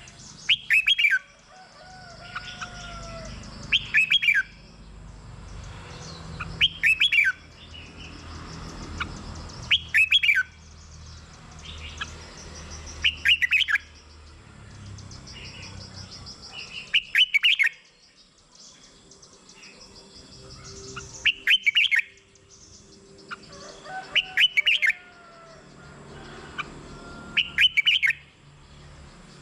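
Red-whiskered bulbul singing: short, loud, bright phrases repeated about every three seconds, with fainter chirps from other birds in between.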